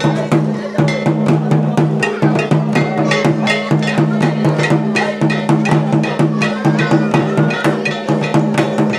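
Festival percussion for a folk dance: drums and ringing metal percussion beating a fast, even rhythm of several strikes a second over a steady low drone.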